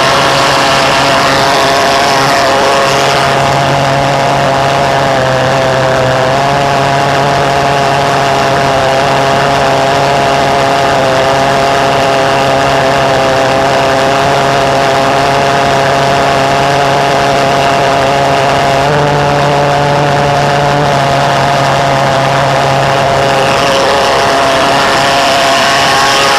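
Pulse jet engine with a 67 mm tailpipe and afterburner running continuously, a loud steady drone with a constant pitch that shifts slightly a few times.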